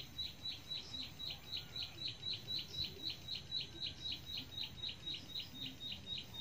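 A bird calls a long, even series of short high notes, about four a second, each dropping slightly in pitch.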